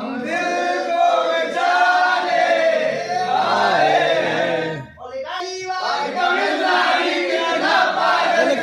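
Several male voices singing or chanting together in a choir-like way, with a brief break about five seconds in.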